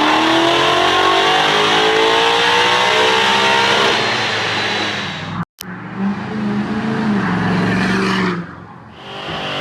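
Tuned, emissions-deleted 6.7 L Power Stroke V8 diesel of a 2017 Ford Super Duty revving hard, its pitch sliding up and down. The sound cuts off abruptly about halfway through, then comes back as a steadier, lower run that fades near the end.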